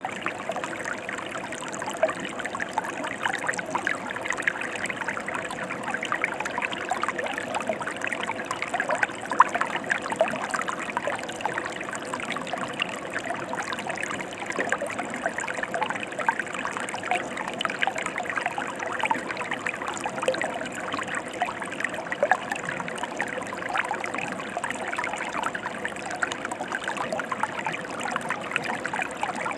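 Mountain river flowing: a steady rush of water with many small splashes and trickles throughout.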